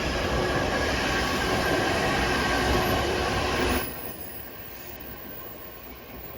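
Odakyu limited-express electric train running past, a loud rush of wheel and running noise that drops away sharply about four seconds in, leaving a quieter steady background.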